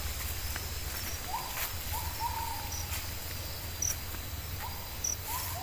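A forest bird's hooting calls, short notes that rise briefly and then hold, coming in a loose series of pairs. Faint short high chirps and a low steady rumble lie underneath.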